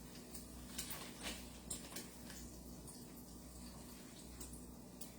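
Chicken pieces frying in hot oil in a skillet: a faint, steady sizzle with a few small crackles and pops in the first two seconds.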